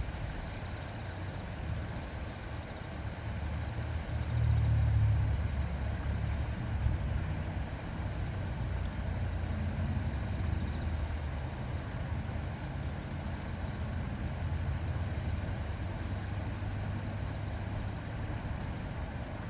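A river murmuring steadily, under a low rumble that swells about four to six seconds in.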